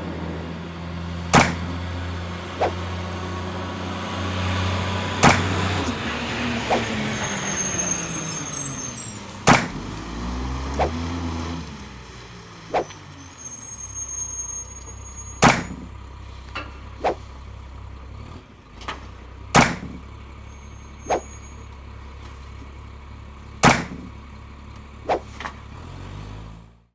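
Truck engine running with a steady low rumble, rising and falling in pitch for a few seconds near the middle. Sharp clicks sound every four seconds or so over it.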